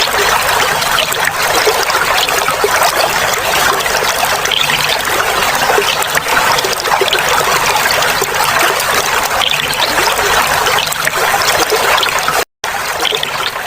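Clear water flowing and trickling in a steady, dense babble. The sound cuts out completely for an instant near the end, then resumes slightly quieter.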